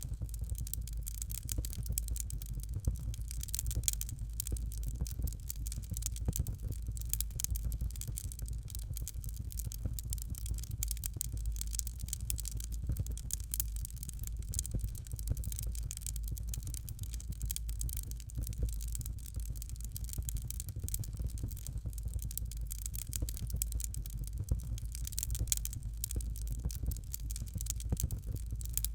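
Fire in a fireplace crackling steadily, with many small fast pops over a low, even rumble.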